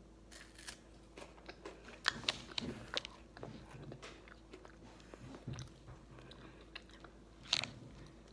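Chocolate-covered wafer bar (a Kex bar) bitten into and chewed, the crisp wafer giving irregular sharp crunches, loudest about two seconds in and again near the end.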